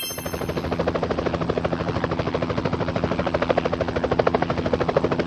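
Helicopter sound: rotor blades chopping in a fast, even rhythm over a steady engine hum, fading in at the start.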